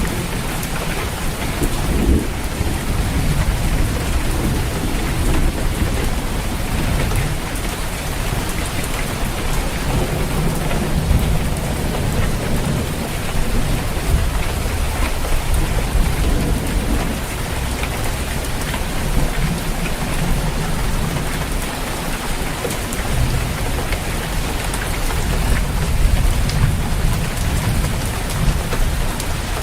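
Steady rain falling on a roof, with low thunder rumbling that swells and fades several times.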